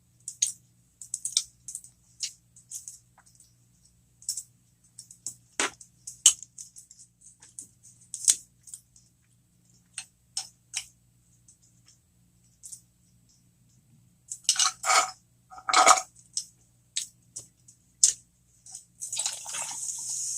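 Close-miked eating sounds: wet mouth clicks and lip smacks while chewing cheese-stuffed jalapeño poppers, with a denser run of chewing about three quarters in and a short hissing rush near the end, over a faint steady hum.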